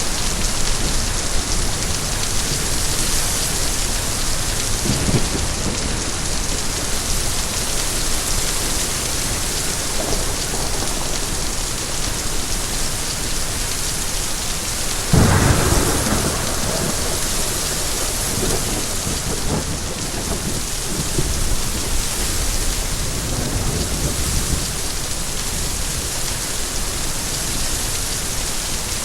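Steady heavy rain with thunder: one sudden loud thunderclap about halfway through that rumbles away over a couple of seconds, and fainter rumbles before and after.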